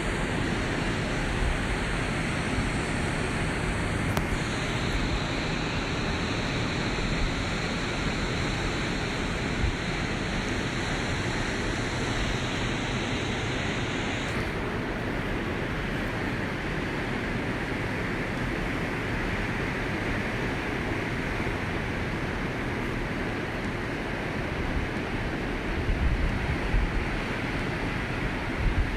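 Steady wash of ocean surf on a beach, with wind on the microphone that swells briefly a few times near the end.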